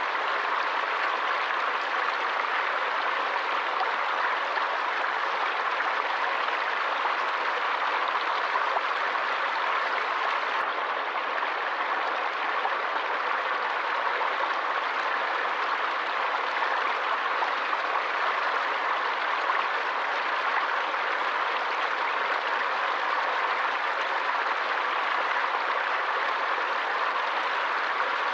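Running water of a forest stream: a steady, even rush of flowing water without a break.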